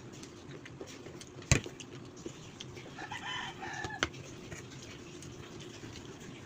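A chicken calls once for under a second, its pitch stepping and wavering, with a single sharp click about a second and a half in and another just after the call.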